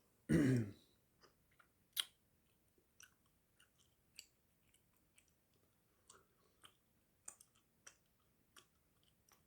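Chewing gum close to the microphone: irregular wet clicks and smacks of the mouth, a few each second. A brief hum of the voice comes just under a second in.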